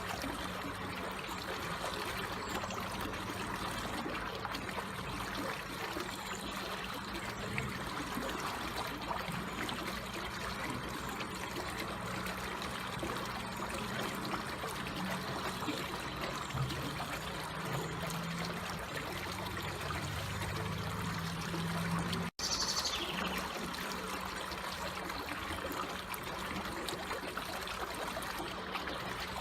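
Water flowing slowly and trickling steadily, a continuous even rush, with a momentary break in the sound about three quarters of the way through.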